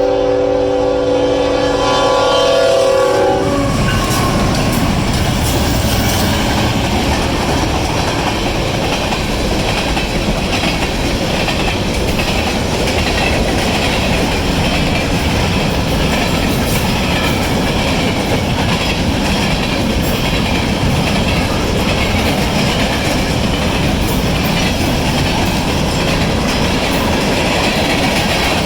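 Union Pacific freight locomotive horn sounding a steady multi-note chord that cuts off about three seconds in. It is followed by a manifest freight train rolling past close by, with loud, steady wheel-on-rail rumble and clickety-clack.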